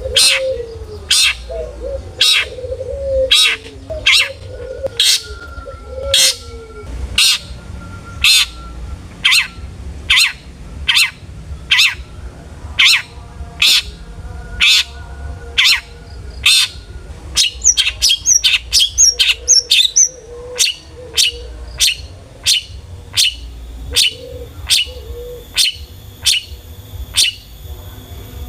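Long-tailed shrike (cendet) calling: a harsh, sharp note repeated evenly about once every 0.8 seconds, with a quicker run of varied higher notes about two-thirds of the way through. Softer, lower warbled notes sit under the calls in the first several seconds.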